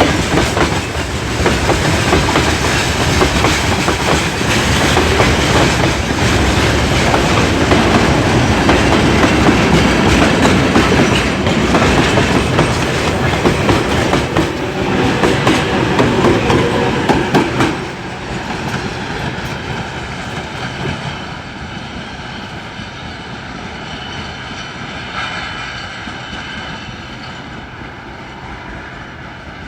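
Freight train wagons rolling past close by, wheels clattering over the rail joints, on a climb. About two-thirds of the way through the loud clatter drops off suddenly as the end of the train passes, and the sound fades as the train moves away.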